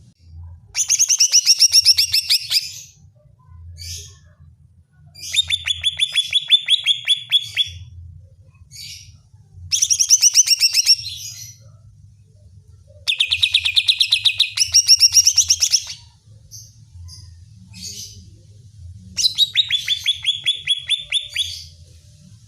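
Greater green leafbird (cucak ijo) giving a heated challenge song: five bursts of fast, rapidly repeated sharp notes, each two to three seconds long, with short pauses and a few single notes between them. A faint low hum runs underneath.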